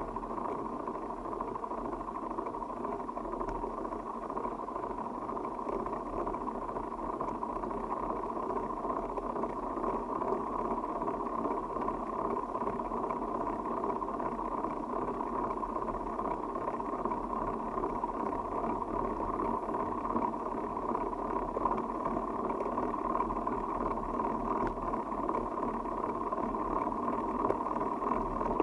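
Steady rushing noise of a bicycle on the move, wind and tyre noise picked up by a ride-mounted camera, growing slightly louder over the stretch.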